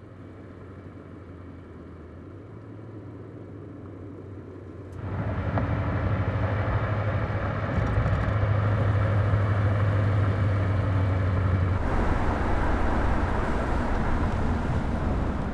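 Car engine running steadily with a low, even hum, becoming much louder about five seconds in and shifting in tone around twelve seconds before it cuts off at the end.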